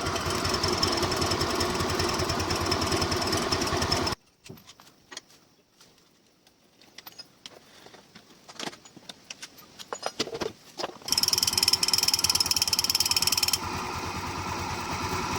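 TVS Wego scooter's 110 cc single-cylinder four-stroke engine running with a fast, even pulse and a high steady whine over it. It cuts off abruptly about four seconds in, leaving scattered light clicks and knocks. Then it runs again from about eleven seconds in, the whine dropping away a couple of seconds later.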